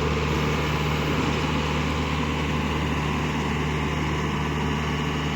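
A farm diesel engine running steadily at constant speed, with an even, unbroken hum.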